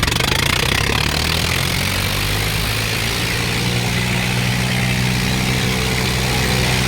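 Diesel tractor engine running steadily, a continuous low hum.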